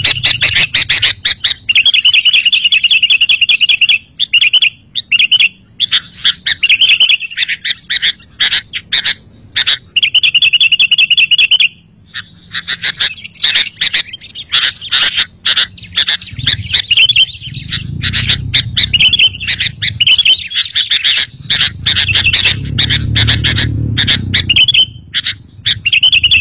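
Sooty-headed bulbul (kutilang) calling and chattering busily: a dense run of rapid chirps, short trills and sharp notes, loud and almost without a break. A low rumble rises beneath the calls twice in the second half.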